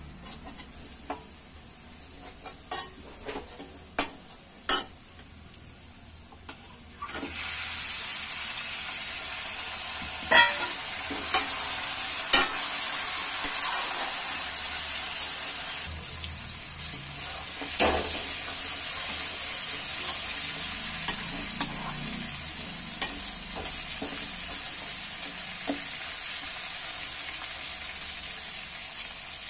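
A slotted steel spatula clicking and scraping in a steel kadai over onions and dried red chillies frying gently in oil. About seven seconds in, raw mutton pieces go into the hot oil and a loud sizzle starts, which keeps going as the meat is stirred, with clinks of the spatula on the pan.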